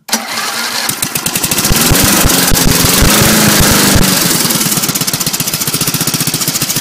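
Old lawnmower's small engine, fitted with a homemade exhaust stack, starting up and running fast for a few seconds, then settling about four seconds in to a slow, even idle.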